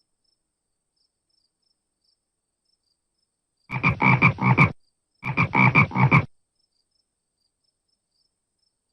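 Frog croaking: two bursts of rapid croaks, each about a second long, the first starting a little under four seconds in.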